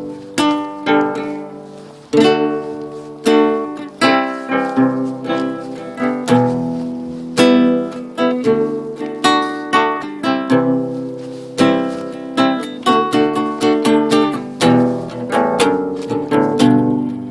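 Classical guitar fitted with steel acoustic strings, played solo: chords struck about once a second, each ringing out and fading before the next, with some single notes picked in between.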